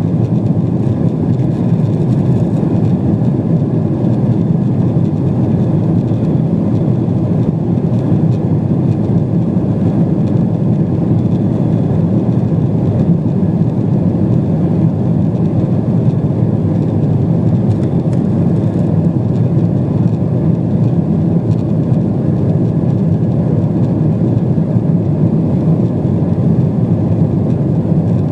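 Steady in-flight cabin noise of a Boeing 777-200 airliner: the drone of its twin jet engines and the airflow over the fuselage, heard from a passenger seat. It is loud and even, with a deep rumbling hiss and a few faint steady tones.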